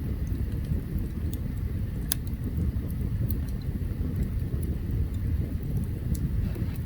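Open campfire burning: a steady low rumble with scattered sharp crackles and pops, the loudest about two seconds in.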